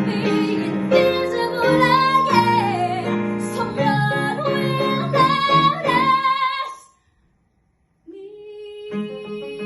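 A girl singing the closing phrase of a musical-theatre song over instrumental accompaniment, ending on a long held high note; after about a second of silence, instrumental music with piano and strings begins.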